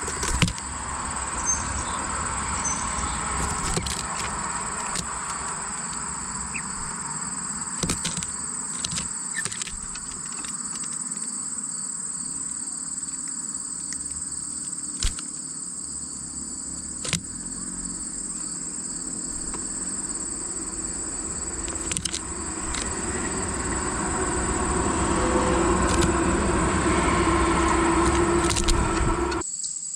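A steady high insect trill, with scattered sharp clicks. A low rumble swells in the last few seconds.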